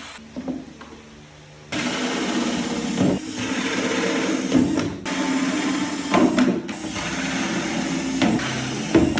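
A handheld power tool running on plastic soap containers, starting suddenly about two seconds in and going in several long stretches with short breaks between them.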